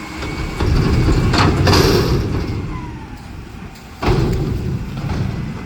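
Mack front-loader garbage truck's engine revving up as its hydraulic arms work, then easing off, with a single loud bang about four seconds in.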